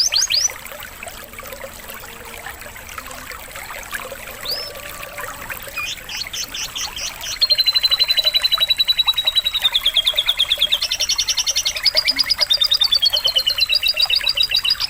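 Domestic canary singing fast trills and rolling runs of repeated high notes. It sings loudly at the start, drops to a few scattered notes for several seconds, then carries a long loud trilling phrase from about halfway. Faint trickling water is heard beneath the quieter stretch.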